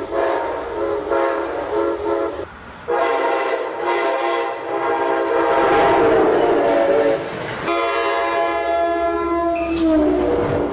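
Passing train's multi-chime air horn giving a horn show: a few short blasts, then two long ones, over the low rumble of the train. The horn's pitch drops near the end as the train goes by.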